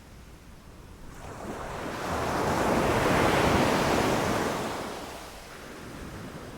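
Sea wave breaking on a beach: one wave swells up about a second in, rushes loudest near the middle, and washes out, fading by about five and a half seconds.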